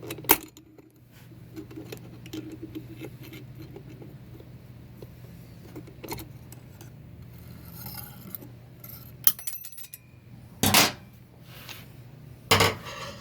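Metal parts of a 4L60-E automatic transmission clinking and clanking as they are handled during teardown. There is a sharp knock just after the start, a short rattle about nine seconds in, and two louder clanks near the end.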